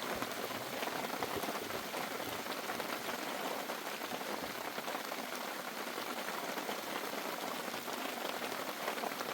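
Steady rain falling, with many separate drop hits on a surface and no letting up.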